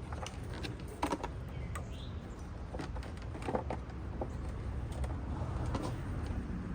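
Light clicks and knocks of a K&N panel air filter being handled and seated in a car's plastic air box, scattered irregularly over a steady low rumble.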